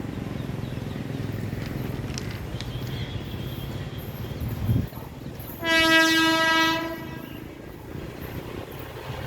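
Indian Railways WAP7 electric locomotive sounding one horn blast, a single steady note about a second long, over the low rumble of the approaching train. A short thump comes just before the horn.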